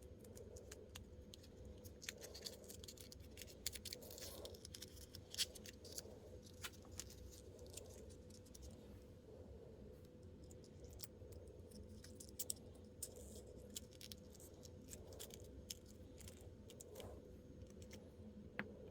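Quiet hand handling of small plastic miniatures and their packaging: scattered light clicks, taps and rustles, over a faint steady hum.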